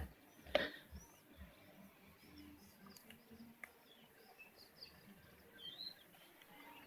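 Faint bird chirps, many short calls scattered throughout, with two sharp knocks in the first second.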